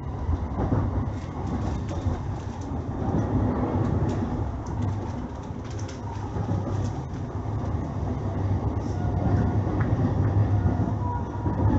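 JR East E531 series electric train running at speed, heard from inside a car: a steady low rumble of wheels on rail, with a few faint ticks, growing a little louder toward the end.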